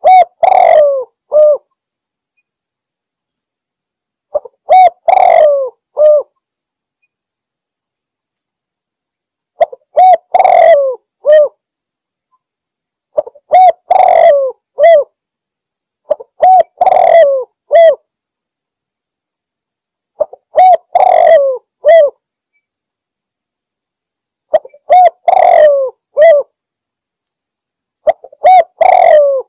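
Spotted dove (tekukur) cooing its territorial call to a rival: a short phrase of a few low, hooting coos, about eight times over, each phrase about a second and a half long with a few seconds of silence between.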